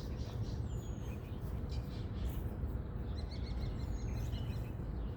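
Outdoor park ambience: a steady low rumble of background noise, with small birds giving short high falling whistle calls twice and a brief rapid trill in between.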